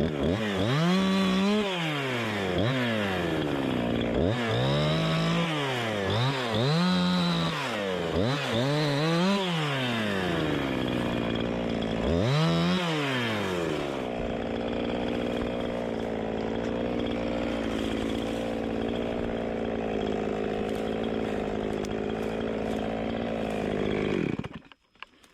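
Two-stroke chainsaw revved up and down repeatedly, about six times in the first half, then idling steadily before it shuts off suddenly near the end.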